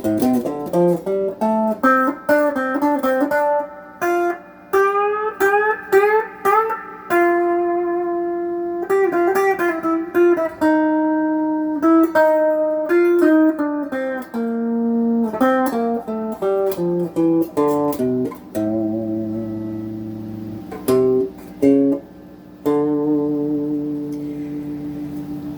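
Electric guitar on its bridge pickup, played clean through a Crate GX15R amp: melodic single-note lines and held, ringing notes. The notes on the fat strings sound quieter because the bass side of the bridge pickup is set low.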